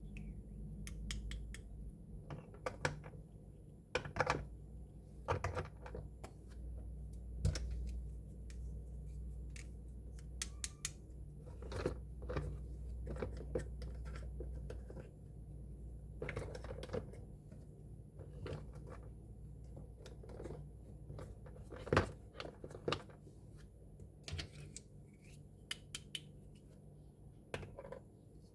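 Small plastic miniature kitchen-set toy pieces being handled: irregular sharp clicks and taps, over a low steady hum.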